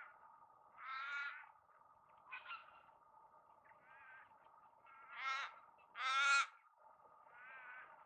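A bird calling over and over, about once a second: short, wavering, pitched calls, the two loudest about five and six seconds in. Faint steady background noise runs underneath.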